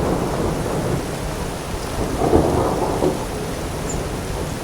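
Heavy rain pouring down steadily, swelling louder a little over two seconds in.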